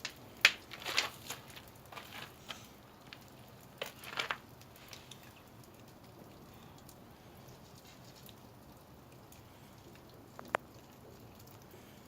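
Firing of a wood-fired kiln: several clusters of sharp wooden knocks and cracks in the first few seconds, and a single sharp one about ten seconds in, over a faint steady hiss.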